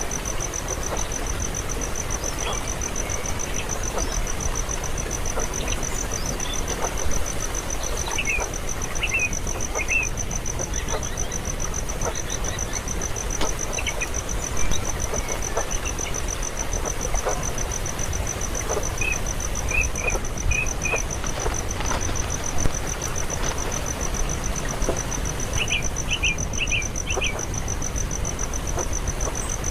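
A cricket-like insect trilling steadily in a fast, even, high-pitched pulse, over steady outdoor noise. Short bird chirps come in small quick groups a few times, most clearly near the end.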